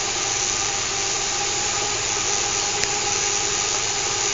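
Small fischertechnik electric motor running steadily, a constant whine of two tones over a hiss, with one sharp click near three seconds in.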